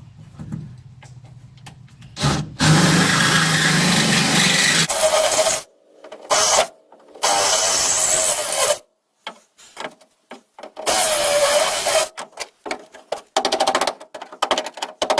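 A power drill with a spot weld cutter bit drilling out spot welds in the car's sheet-steel seat pan, run in several bursts with the motor pitch sagging under load. Near the end it breaks into a rapid chattering as the cutter grabs, typical of the bit going through the panel.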